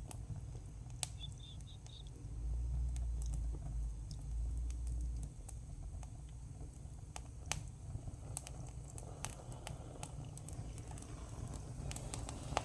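Campfire crackling, with sharp scattered snaps and pops over a low rumble that is strongest from about two to five seconds in.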